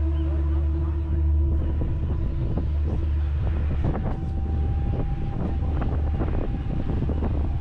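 Ferry engine droning steadily, a deep hum with a few steady tones above it. Wind buffets the microphone, and there are scattered short knocks in the second half.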